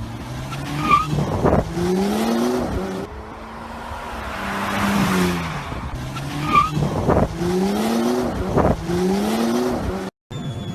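A high-performance SUV's engine accelerating hard in sport mode. The revs climb and drop back at each of several upshifts, and the sound cuts out briefly near the end.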